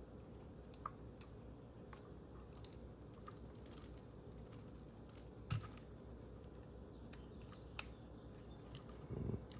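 Faint small-parts handling with a few sharp little clicks, about a second in, around five and a half seconds and near eight seconds: a tool working a small retaining clip off an RC motor's pinion gear.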